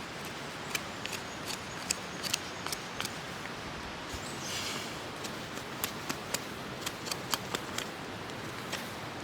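A knife scraping and shaving damp bark off a stick of firewood: a run of sharp, irregular clicks and ticks, with one brief hissing scrape about halfway through. A steady hiss lies underneath.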